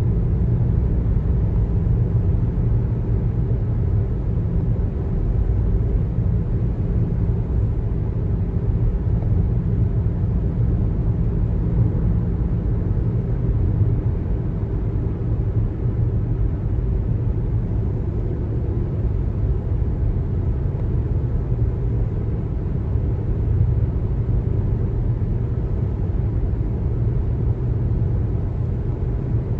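Steady low rumble of a car driving: tyre and engine noise on the road. A faint steady hum under it fades out about halfway through.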